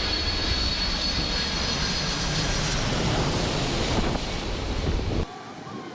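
Airplane engine sound, a steady rushing noise with a high whine that fades out about halfway through, cut off suddenly a little after five seconds in.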